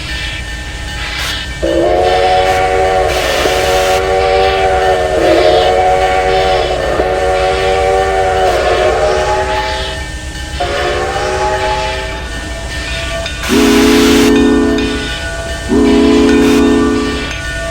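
Steam locomotive whistles: a long multi-note chime whistle held about eight seconds, a shorter blast, then two lower-pitched, louder blasts near the end, over a steady hiss of steam.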